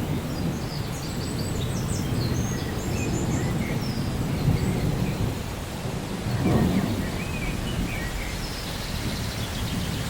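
Rainforest ambience: a steady low rumble of rain and distant thunder, swelling briefly near the middle, with small birds chirping high above it in the first half and again near the end.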